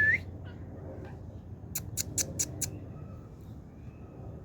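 A quick series of five sharp, short animal calls, about four a second, around two seconds in, after a brief rising whistle at the start.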